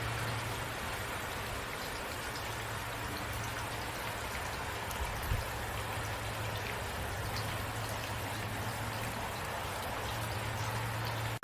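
Steady rainfall, an even hiss of many drops, over a low steady hum, with one soft low thump about five seconds in.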